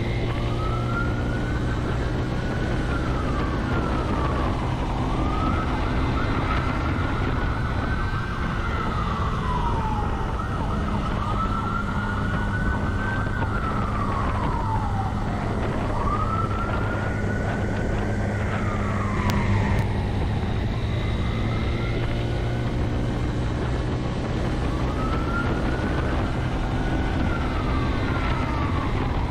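Police siren in a slow wail: each cycle rises, holds briefly, then falls, repeating about every five seconds. Under it runs the steady drone of the pursuing vehicle's engine.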